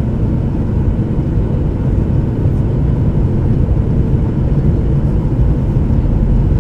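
Steady low rumble of a Boeing 737-800's jet engines, with a faint steady tone above it.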